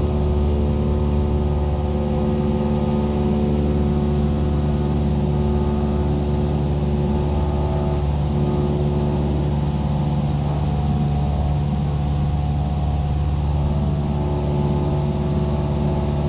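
Cessna 172's piston engine and propeller running steadily in flight: an even, unchanging drone.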